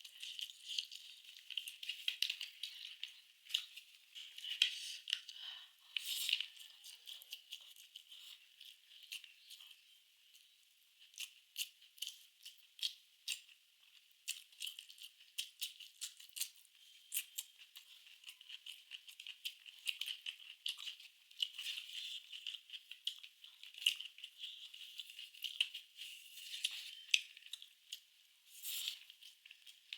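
Close-miked eating sounds of fried rice and curry: a dense, uneven run of small wet clicks and crackles from chewing, steady in character with short pauses.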